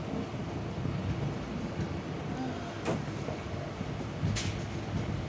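Passenger train coach running on the rails, a steady low rumble heard from inside, with two sharp knocks about three and four and a half seconds in.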